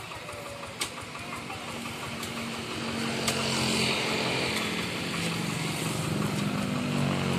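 Engine of a walk-behind paddy-field tractor running steadily and growing louder after about two seconds, with a sharp click about a second in.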